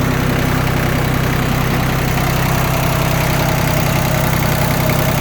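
Yanmar F16D compact tractor's diesel engine idling steadily just after a start, sounding healthy.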